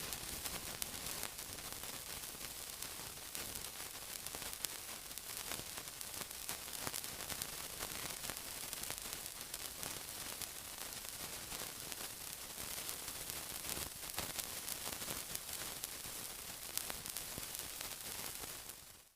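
Steady sizzling: an even hiss thick with tiny crackles and pops, cutting off suddenly at the end.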